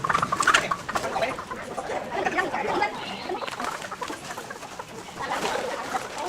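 Several live chickens clucking, with short overlapping calls, busiest about half a second in and again near the end.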